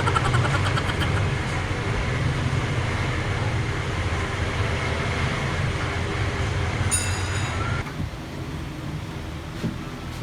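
A motor vehicle engine running with a low, steady rumble. A brief high squeal comes about seven seconds in, then the rumble drops away.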